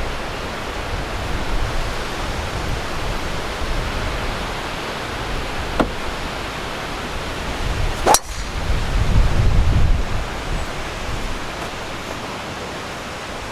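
Strong wind rushing and buffeting the microphone, with a sharp crack of a golf club striking the ball about eight seconds in, followed by a heavier gust rumbling on the microphone.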